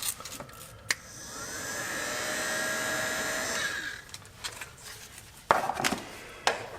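Weller 6966 electronics heat gun switched on, its fan spinning up with a rising whine and blowing steadily for about three seconds before shutting off. Two sharp knocks follow near the end.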